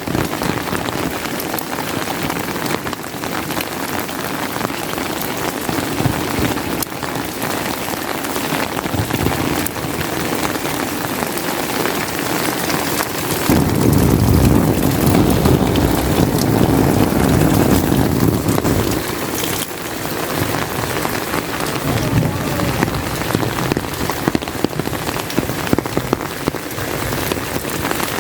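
Steady rain falling and pattering on surfaces. About halfway through comes a low rumble of thunder lasting around six seconds.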